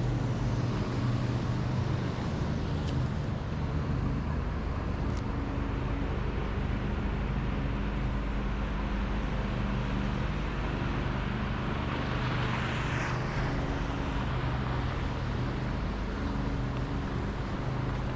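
City street traffic: a steady low engine hum from a vehicle nearby, with a hissing swell about twelve seconds in, as of a vehicle passing.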